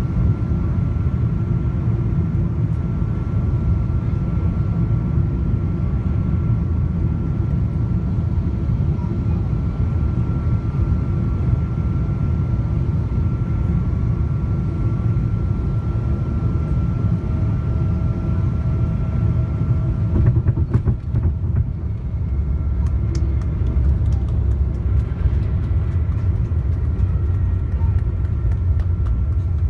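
Cabin noise inside a Boeing 777-200ER with Pratt & Whitney PW4090 engines: a steady low rumble of engines and airflow with a thin steady whine over it. About two-thirds of the way in there is a brief cluster of clicks and rattles.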